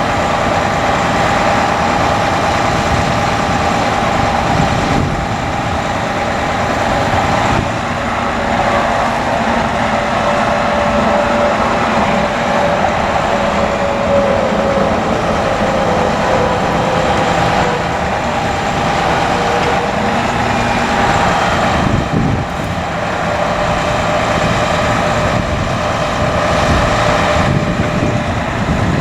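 A Hino 338 bucket truck's diesel engine runs steadily while the Altec boom's hydraulics work. A whining tone wavers and shifts in pitch over it.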